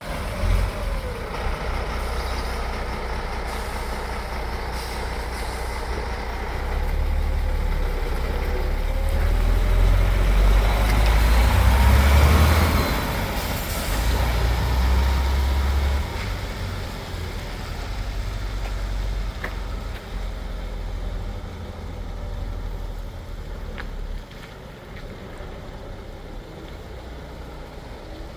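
MAN TGA 18.480 4x4 truck's inline-six diesel running as the truck drives: a low rumble that grows louder to a peak about twelve seconds in, with a rising and falling whine there, then fades in steps.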